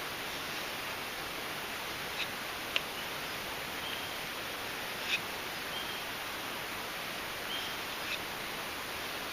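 Steady hiss of woodland background, with a few faint sharp clicks and three short high chirps.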